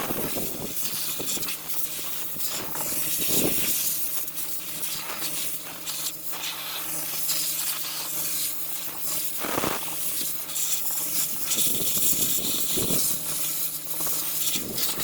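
Sandblaster hissing as it blasts rust and scale off a steel truck frame, with a few louder swells as the nozzle moves, over a steady low hum.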